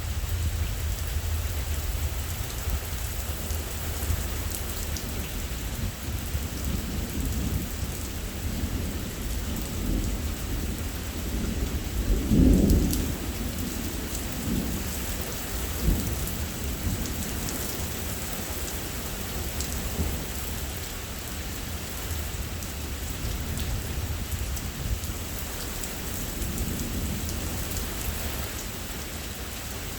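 Steady heavy rain from a thunderstorm, with thunder rumbling in the middle: a loud rolling clap about halfway through and a sharper crack a few seconds later.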